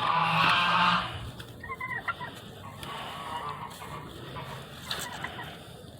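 Farm fowl calling: one loud, rattling call lasting about a second at the start, then a few short, quieter calls.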